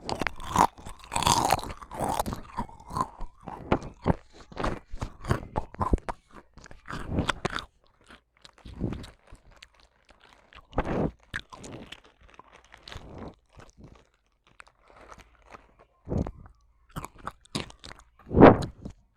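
Close-up crunching of something crisp: a dense, irregular run of crunches that thins out partway through, with the loudest single crunch near the end.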